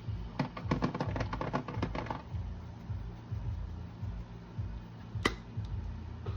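A spice shaker of dried oregano shaken over chicken: a quick rattle of clicks lasting about two seconds, then one sharp click near the end.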